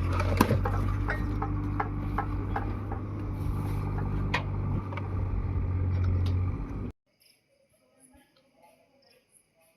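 Heavy diesel machinery engine running steadily, with scattered sharp clanks and knocks over it. It stops abruptly about seven seconds in, leaving faint, repeated insect chirps.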